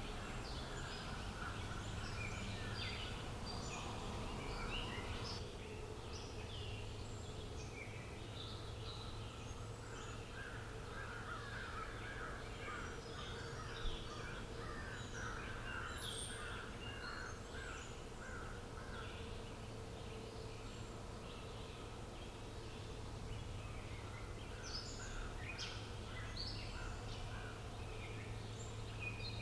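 Outdoor birdsong: many birds chirping and calling over and over, with a run of quick repeated notes in the middle, over a steady low hum. One sharp click about fourteen seconds in.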